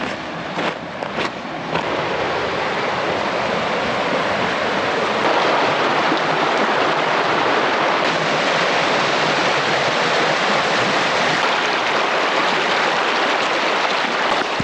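Pedernales River water rushing over rocks: a steady, loud rush of flowing water that swells over the first couple of seconds.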